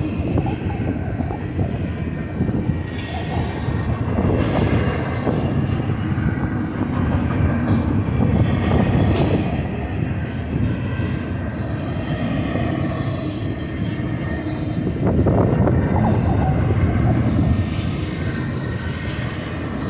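Freight train rumbling past, a loud steady roar of engines and rolling cars.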